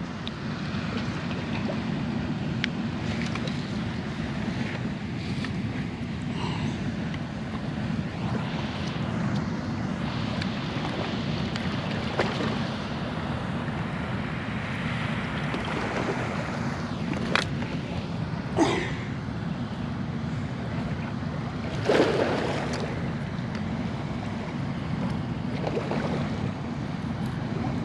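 Steady low rumble of wind and water, with a few short knocks and clicks from working a swallowed hook loose from a pike's mouth. The loudest knock comes about three-quarters of the way through.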